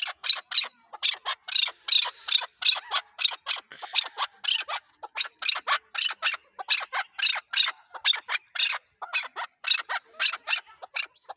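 Chukar partridge calling: a fast, unbroken run of short, harsh notes, about four a second.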